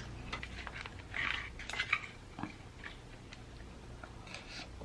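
Close-up eating sounds: soft chewing with scattered small clicks and taps.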